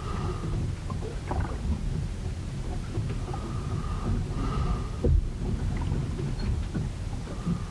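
A ship in a storm: a steady low rumble of wind and water against the hull, with scattered knocks, the loudest about five seconds in, and faint short squeaks that recur every second or two.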